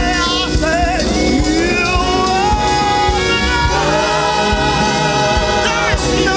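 Gospel worship music: a lead voice singing long, bending notes over a band with a steady drum beat, with a choir joining in.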